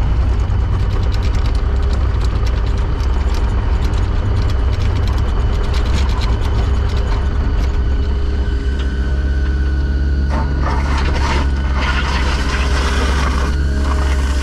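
Heavy machine engine running steadily, with sharp metallic clicks and, from about ten seconds in, heavier clanking and rattling.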